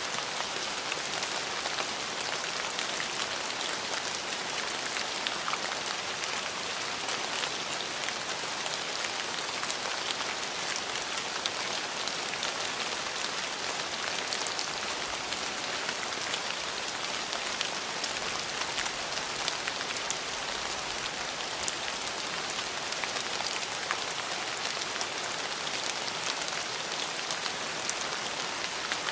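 Steady rain: an even hiss of falling rain, dotted throughout with small sharp drop ticks.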